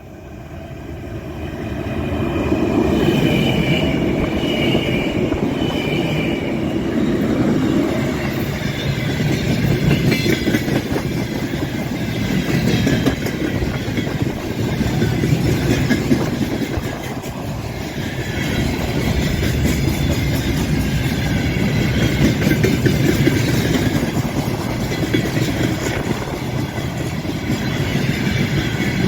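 Freight train passing behind a 4ES5K 'Ermak' electric locomotive: it grows loud over the first few seconds, then the wagons roll by with a steady rumble and the clickety-clack of wheels over rail joints. A high whine sounds for a few seconds as the locomotive goes by.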